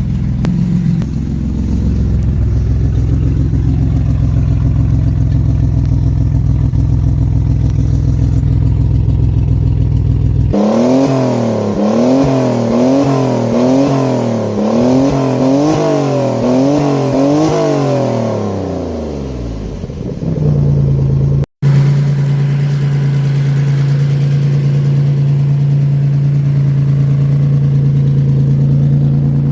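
Maserati Biturbo's twin-turbo V6 running through a new custom 2.5-inch exhaust that is only tack-welded: a steady idle, then revved up and down repeatedly in quick succession for several seconds, then settling to a steady, higher idle. Leaks at the tack welds add a good part of the noise.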